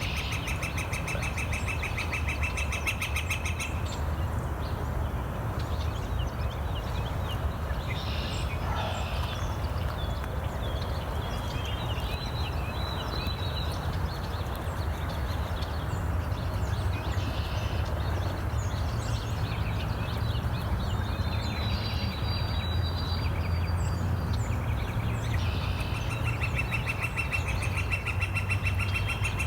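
Outdoor ambience: songbirds chirping and singing over a steady low rumble, with a fast, evenly pulsed trill near the start and again near the end.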